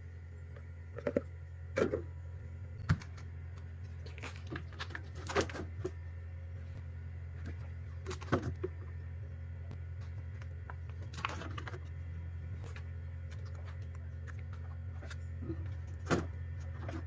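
Food containers and packages being handled and set down while a refrigerator is restocked: a series of separate clicks and knocks, a few seconds apart, over a steady low hum.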